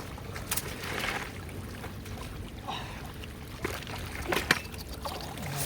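Shallow water sloshing, with a few sharp splashes about half a second, three and a half and four and a half seconds in, as someone moves through floodwater.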